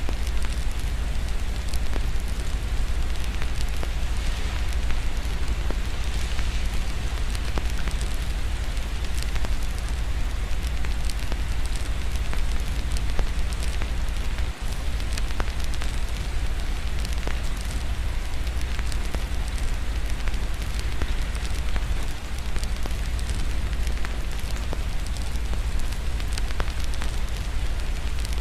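Fireplace crackling with frequent small pops over steady rain, with a constant low rumble underneath.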